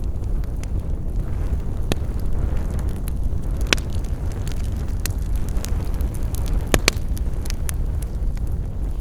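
Campfire burning: scattered crackles and a few sharp pops over a steady low rumble, the loudest pop about four seconds in and two close together near seven seconds.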